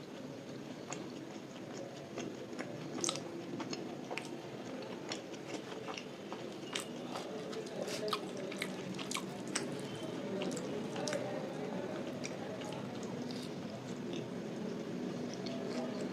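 Close-miked chewing of luchi with vegetable curry: irregular wet smacks and small clicks from the mouth, with the odd soft crunch.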